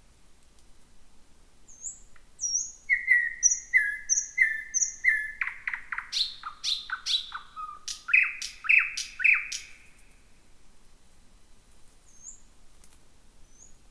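Thrush nightingale singing one song phrase about two seconds in: a run of five evenly repeated notes, then a string of loud, clicking notes falling in pitch, closed by three loud notes. Then a pause with two faint high notes.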